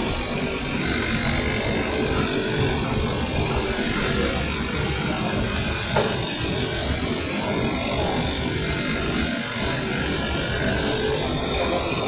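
Cold-room R22 refrigeration condensing unit running steadily, its compressor and fan giving a constant whooshing noise with a faint steady hum, and a single click about six seconds in.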